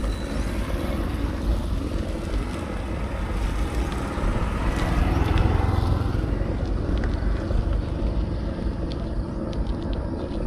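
Wind buffeting an action camera's microphone while cycling, a steady low rumble. A motor vehicle passes, swelling to loudest about five seconds in and fading again.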